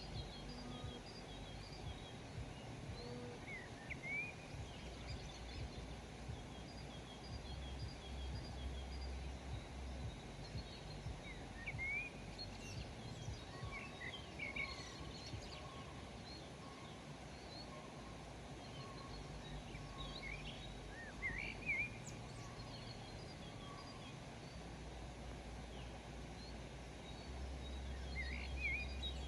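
Several small birds chirping and calling, with short rising chirps and quick runs of high repeated notes, scattered throughout over a constant low rumble of countryside background noise.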